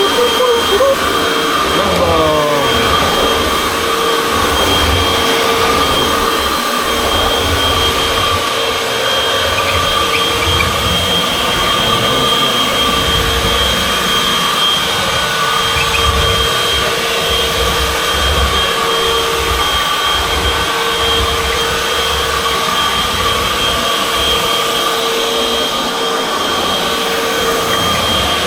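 Hoover WindTunnel upright vacuum cleaner (model UH70605) running steadily with a constant whine over its airflow noise, and an uneven low rumble as it is worked across the floor. Its pitch wavers briefly in the first few seconds.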